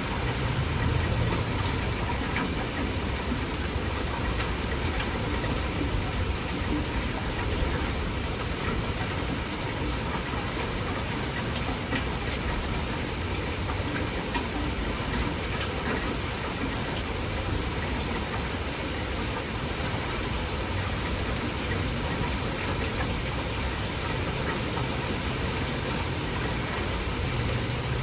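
Heavy, steady rain falling, an even hiss throughout. A low rumble sits under it near the start and comes up again near the end.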